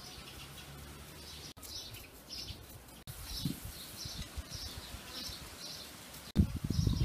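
Small birds chirping over and over, a short high call about twice a second. A few low thumps and knocks come near the end.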